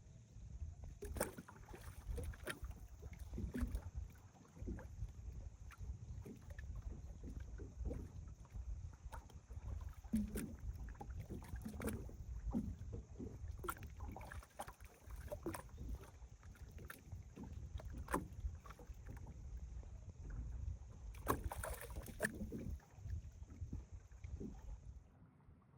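Wind-driven waves lapping and slapping irregularly against the lakeshore, over a steady low rumble of strong wind on the microphone.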